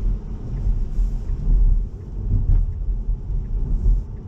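Low road and tyre rumble inside a Tesla's cabin as the car drives along a wet road.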